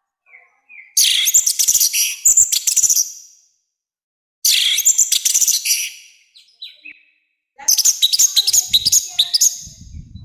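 Orange-headed thrush singing loud, harsh song in three phrases of rapid repeated chirping notes with short silent gaps between them. A faint low rumble comes in near the end.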